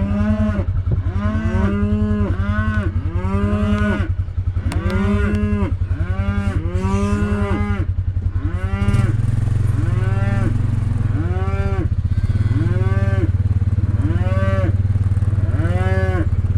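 Cattle mooing over and over, one call about every second, some overlapping, over the steady low running of an ATV engine whose note steps up about nine seconds in.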